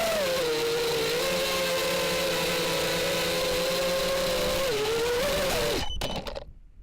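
FPV racing quadcopter's brushless motors and propellers whining, the pitch dipping and rising slightly with throttle, then cutting off abruptly about six seconds in with a few sharp clicks.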